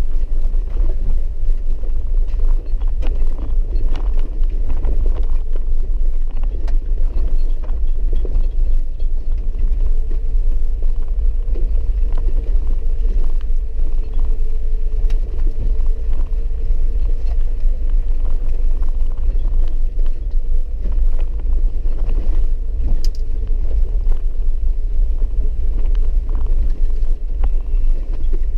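Four-wheel-drive vehicle driving on a muddy dirt road: a steady low rumble, with scattered small knocks and a faint steady whine through the middle.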